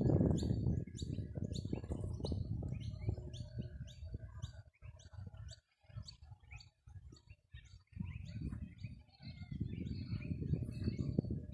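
Small birds chirping, with quick falling chirps a few times a second at first, then scattered calls. Under them is a low rumble that nearly drops away for a couple of seconds midway.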